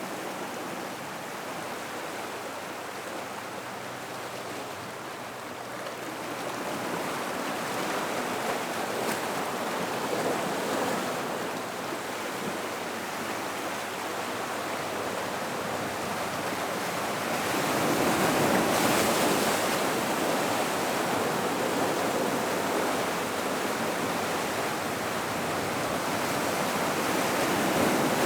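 Gentle ocean waves washing into a rock pool, a steady wash that swells and eases, with a larger surge about two-thirds of the way in.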